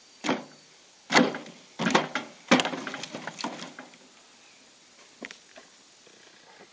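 Branches and wood clattering and cracking: four sharp knocks in the first three seconds, followed by a second or so of crackling twigs and a couple of lighter knocks later.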